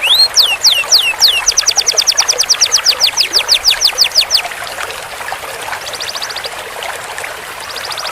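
Canary singing: a few quick falling whistles, then a long, fast, even trill (a roll) of about eight notes a second lasting about three seconds, then softer short trills.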